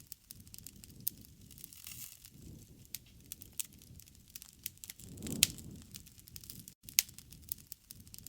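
Wood campfire crackling, with scattered sharp pops over a low rushing of flame; the loudest pop comes with a brief surge of the fire about five seconds in.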